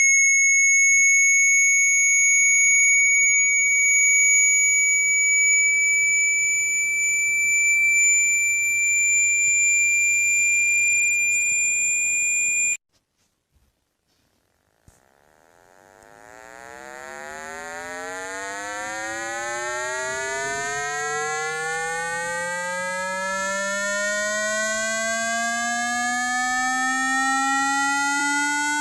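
Electronic water-ejection tones for clearing water from a phone speaker. A steady high-pitched tone creeps slightly upward and cuts off suddenly about halfway through. After a couple of seconds of silence, a buzzy low tone fades in and slowly rises in pitch.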